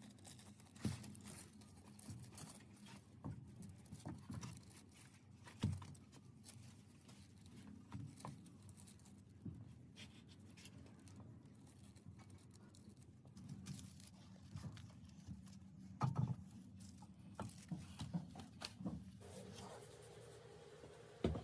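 Faint handling sounds of hands working a decal onto a sewing machine's enamelled cast-iron body: scattered light taps, clicks and rubbing over a low hum, with a louder knock about six seconds in and another around sixteen seconds.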